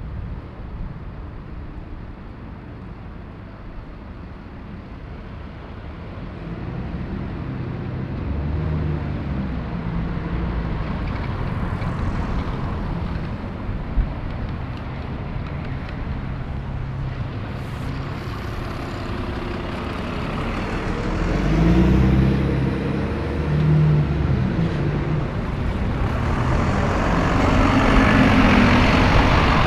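City-centre buses and traffic passing, diesel engines building up as heavy vehicles pull past, loudest about two-thirds of the way in and again near the end, with a hissing rush in the last few seconds.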